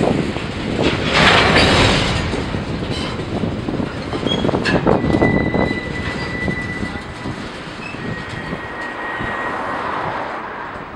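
Freight train moving through a rail yard: a steady rumble with scattered clanks, a swell of hiss about a second in, and a thin high squeal held for a few seconds from about the middle.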